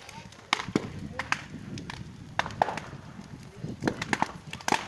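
Large bonfire burning, its wood crackling with irregular sharp pops.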